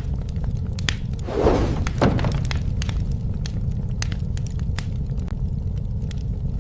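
Wood fire crackling: irregular sharp pops and snaps over a steady low rumble, with a louder rushing, crackling burst about a second and a half in.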